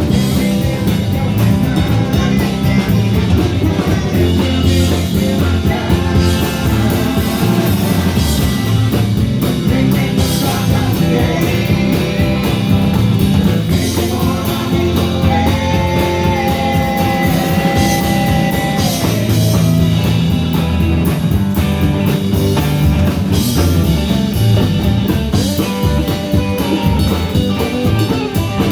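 A rock band playing with electric guitar and drum kit, the music loud and unbroken.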